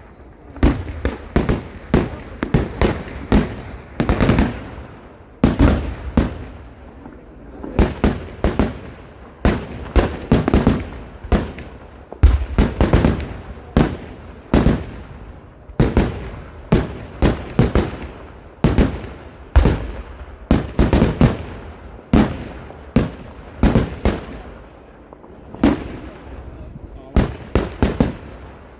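Fireworks going off in a long, irregular barrage of loud bangs. Single reports alternate with rapid clusters of several bangs, each followed by a short echo.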